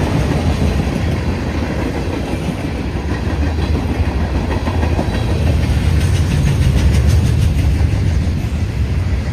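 Freight train cars rolling past on a Norfolk Southern line: a steady, loud rumble of wheels on rail, with wheel clicks and swelling a little about two-thirds of the way through.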